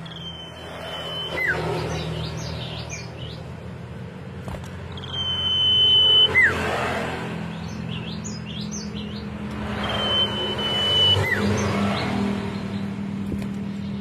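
Common iora (cipoh) singing three phrases about five seconds apart. Each phrase is a long, steady high whistle, then a quick downward slur, then a brief burst of short twittering notes. A steady low hum runs underneath.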